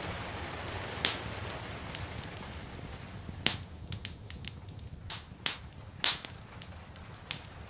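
Wood fire in a fireplace crackling, with scattered sharp pops every second or so over a steady low rumble of the flames. A soft hiss of gentle rain sits under it and thins out about halfway through.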